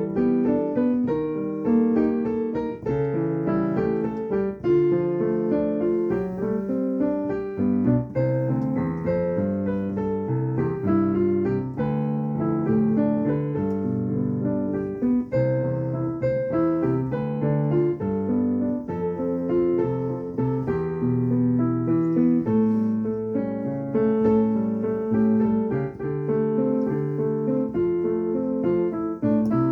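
Solo improvised piano music: a continuous flow of notes and chords, played steadily without pause.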